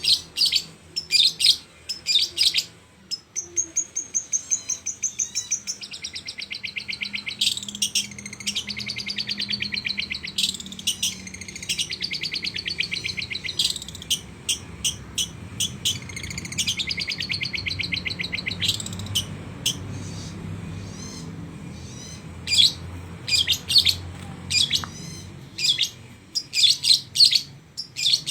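Long-tailed shrike (cendet) singing at full voice: sharp, clipped chirps broken up by long runs of rapid, chattering repeated notes. These runs are the bird's imitation of a lovebird's chatter.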